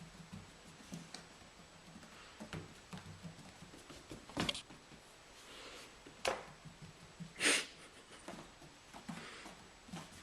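A cat's paws scrambling and skidding across a hard floor, heard as scattered short scuffs and thumps. The three loudest come about four and a half, six and seven and a half seconds in.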